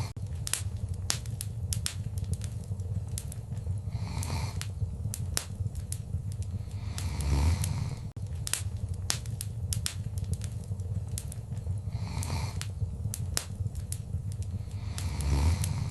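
Wood fire crackling in a fireplace: many sharp pops and snaps over a steady low rumble, with a soft whoosh swelling up about every four seconds.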